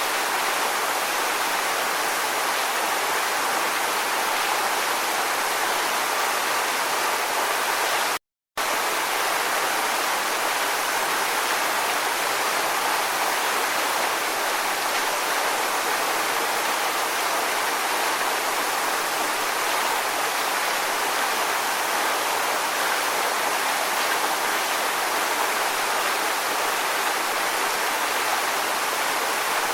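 Steady, even rushing of water with no rise and fall, like a stream or waterfall. The sound drops out completely for a fraction of a second about eight seconds in, then resumes unchanged.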